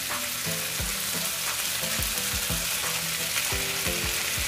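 Diced pork with onion and garlic sizzling as it fries in oil in a nonstick wok, with a steady hiss and soft knocks of a spatula stirring it.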